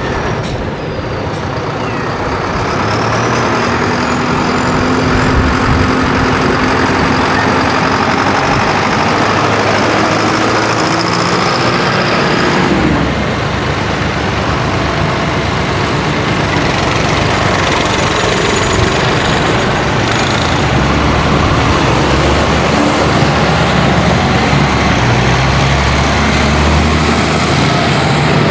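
Diesel tractor engines running as tractors drive along in convoy, the engine pitch shifting as they change speed, with a high whine through the first half.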